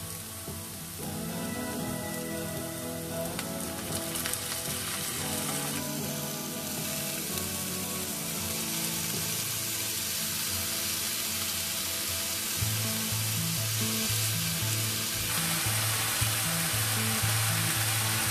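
Sliced onions and garlic sizzling in oil in a frying pan, the sizzle growing louder as marinated chicken pieces are added and turned with tongs. Background music plays along, with a steady beat from about two-thirds of the way in.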